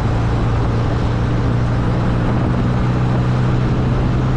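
MG Midget's four-cylinder engine running at a steady cruising speed, with a steady wind and road rush from the open-top car.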